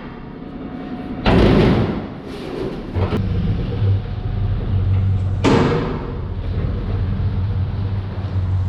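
Three heavy thuds of scrap metal being thrown down, the first about a second in the loudest, with a steady low hum joining about three seconds in.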